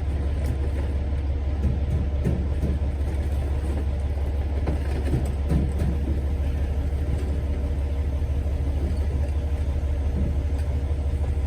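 John Deere 450-C bulldozer's diesel engine idling steadily: a deep, even low rumble.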